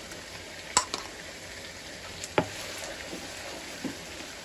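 Onion paste frying in hot oil in a nonstick wok with a light, steady sizzle, stirred with a wooden spatula. A few sharp knocks of the spatula against the steel cup and the pan, the loudest about a second in and again past the middle.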